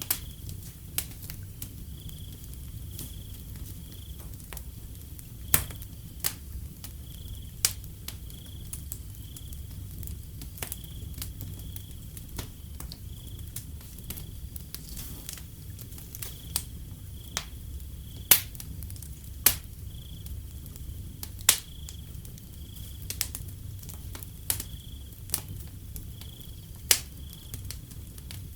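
Wood fire crackling, with scattered sharp pops over a low steady rumble, and a cricket chirping in an even rhythm of short high chirps.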